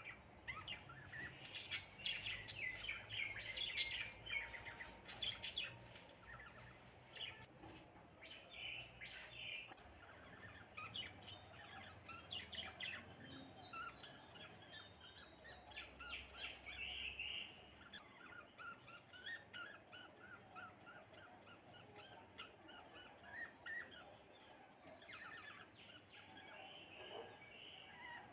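House sparrows chirping: many short, overlapping chirps, busiest and loudest in the first ten seconds or so, then thinner.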